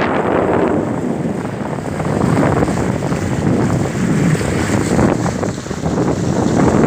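Kostromich motorboat under way: an even rushing noise of the boat and water, with heavy wind buffeting the microphone.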